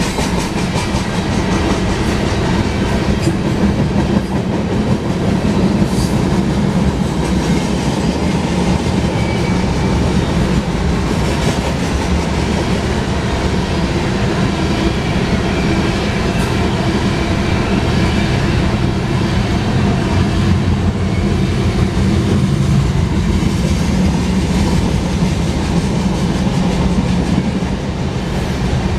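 Freight cars of a long manifest train rolling past close by: a steady, loud rumble of steel wheels on rail with occasional sharp clicks.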